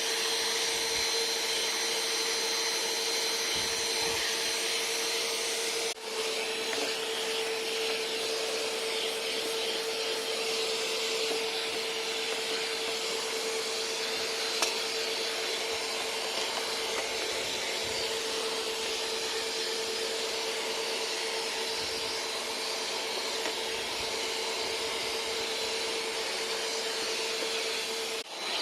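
Bagless vacuum cleaner running steadily with a constant whine, sucking up dust and dirt.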